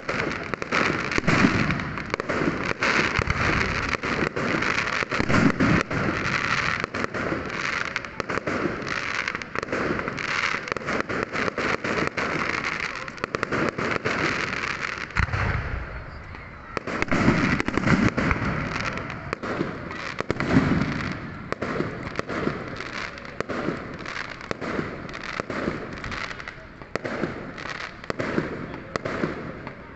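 Fireworks going off: dense, rapid crackling and popping of firecrackers, with louder low bangs every few seconds. The crackle thins into more separate pops after about halfway.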